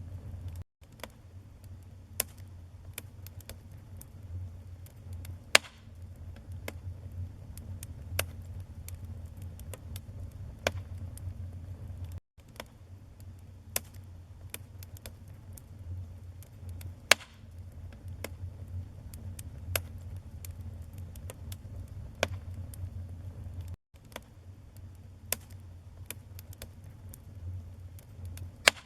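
Wood fire in a fireplace crackling: irregular sharp pops and snaps, a few of them loud, over a steady low rumble. The sound cuts out for an instant three times.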